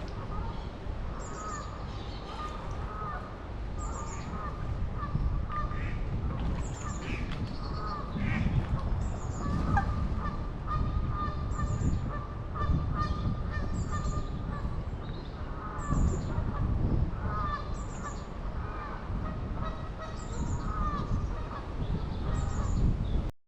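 Canada geese honking repeatedly, with a short high chirp recurring about once a second and a low rumble underneath.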